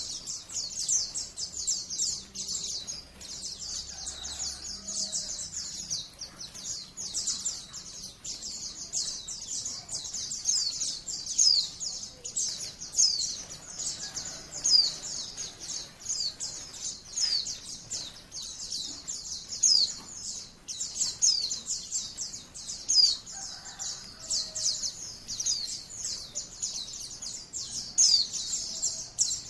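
White-eye (pleci, Zosterops) song: a fast, unbroken stream of high chirps and quick downward-sweeping notes.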